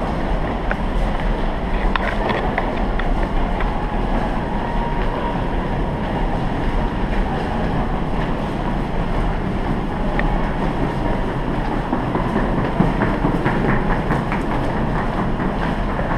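Subway train running: a steady rumble and rattle with occasional faint clicks.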